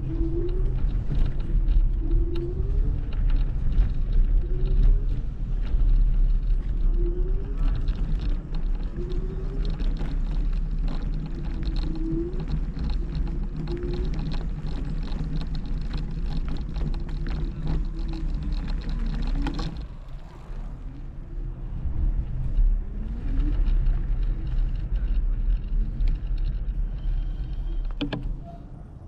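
Wind and rolling rumble from riding a Kugoo G2 Max electric scooter, with a short rising squeak that recurs every second or two. The rumble dips briefly about two-thirds of the way through.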